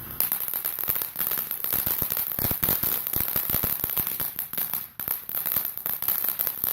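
Consumer firework crackling: a dense, rapid run of small pops that starts about a quarter second in and briefly drops away near five seconds before going on.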